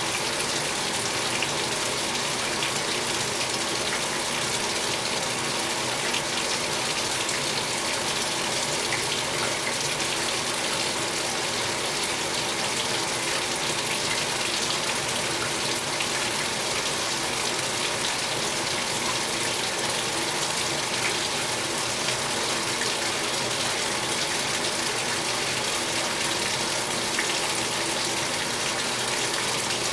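2015 Speed Queen 8 Series top-load washer filling its tub with water: a steady, even gush from the water inlet.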